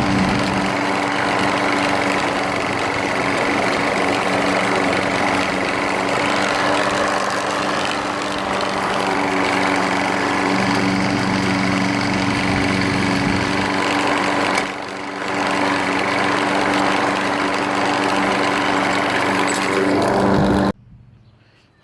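Troy-Bilt front-wheel-drive lawn mower's engine running at a steady speed, with a short dip about 15 seconds in; the sound cuts off abruptly near the end.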